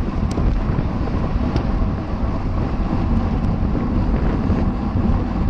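Wind buffeting the microphone of a camera riding along on a bicycle at race speed: a steady, loud, low rumble with a few faint ticks.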